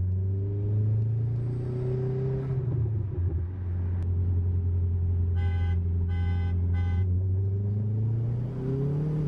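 Car engine running at a steady low drone, its pitch falling about three seconds in and rising again near the end as it speeds up. Three short electronic beeps sound about halfway through.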